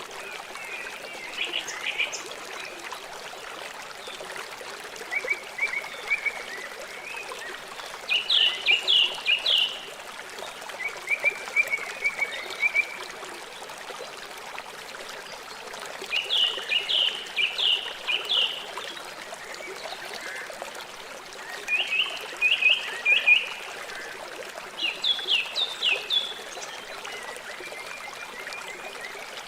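A river running steadily. Over it, a songbird repeats short phrases of quick, high notes several times.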